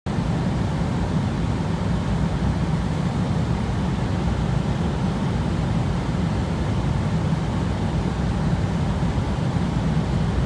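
Airliner cabin noise in flight: a steady low rumble of engines and airflow that does not change.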